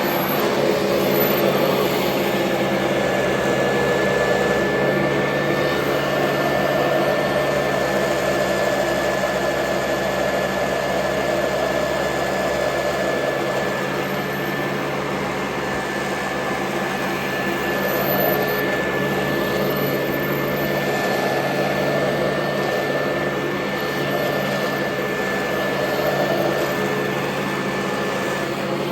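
Royal Model 2008 upright vacuum cleaner running steadily, with a motor hum and a rushing noise that swells and fades several times. A thin high whine sets in a couple of seconds in and holds until just before the end.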